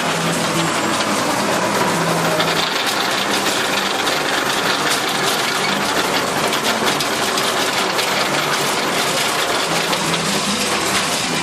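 Massey Ferguson 275 tractor's diesel engine running steadily, with a harsher, noisier stretch through the middle.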